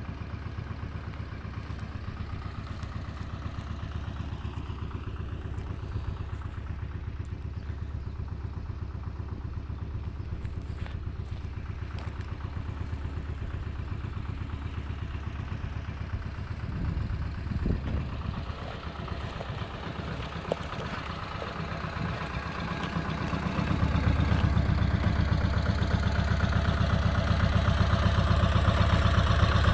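Goldoni 933 RS DT tractor's diesel engine running steadily, with a short spell of clatter about halfway through, then getting clearly louder for the last several seconds.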